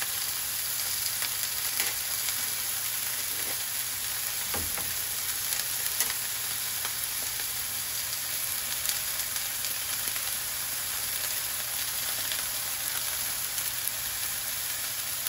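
Chicken frying in olive oil in a nonstick skillet: a steady sizzle with small crackles throughout.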